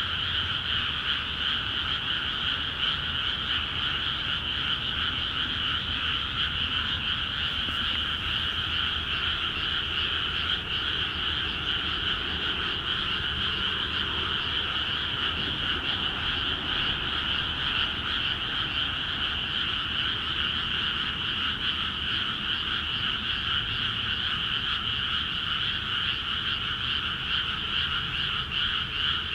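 Dense chorus of many frogs calling at once from flooded rice paddies, a steady unbroken din of overlapping croaks: a breeding chorus after the fields are flooded.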